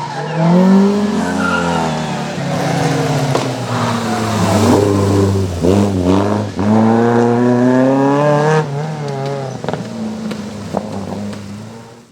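Peugeot 205 GTI rally car's engine revving hard through the gears, its pitch climbing and then dropping sharply at each shift. The sound fades out near the end.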